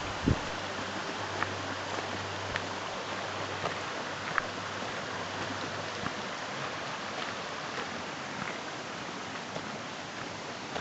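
Steady rushing water noise outdoors, an even hiss with a few scattered light ticks.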